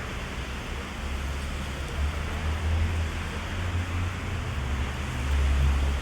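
Heavy rain falling steadily and drumming on an umbrella, with a low rumble that swells about two seconds in and again near the end.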